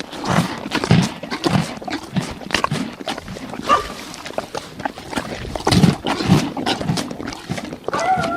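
Horse making a run of short, irregular low grunting and snorting sounds mixed with knocks, with a whinny just beginning right at the end.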